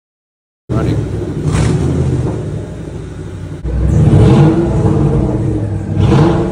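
Ford Mustang V8 engine running, heard from the driver's seat. It starts abruptly and is revved up from idle about three times, the longest rev about four seconds in.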